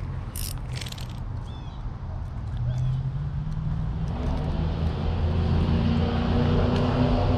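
A motor engine running with a steady low hum that grows louder about four seconds in, as if drawing nearer. There are a few short high chirps near the start.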